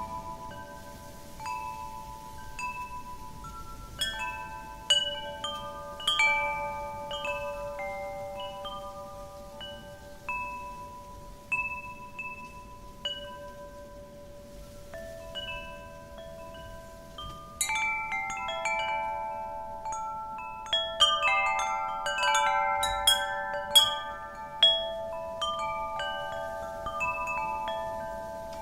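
Wind chimes ringing as the wind swings them, with irregular strikes of several sustained metallic tones that overlap and fade slowly. The strikes come sparsely at first and grow thicker about two-thirds through, over a soft wind hiss.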